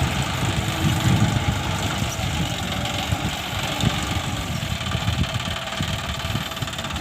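John Deere 5050D tractor's diesel engine running steadily, heard from the driver's seat.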